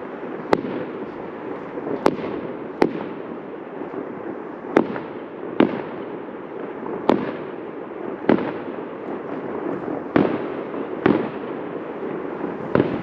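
Fireworks going off at a distance, about a dozen sharp bangs at irregular intervals of one to two seconds over a steady background hiss of noise.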